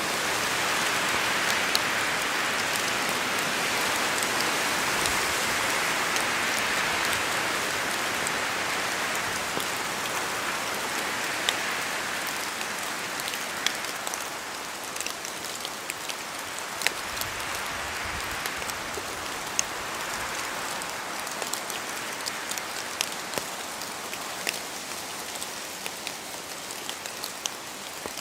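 Steady rain in a forest, with wind swelling and easing through it and scattered louder drops falling from the trees. The whole gradually gets a little quieter.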